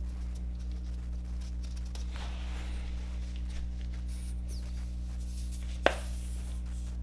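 Light scraping and handling noises of tools and brake parts over a steady low hum, with one sharp metallic clink about six seconds in.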